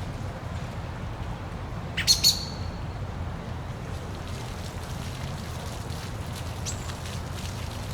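Steady low rush of a waterfall, with a bird giving two sharp, loud chirps about two seconds in and a fainter chirp near the end.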